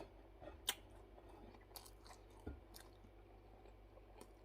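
Faint chewing of food close to the microphone, with a few soft, scattered clicks of the mouth and teeth.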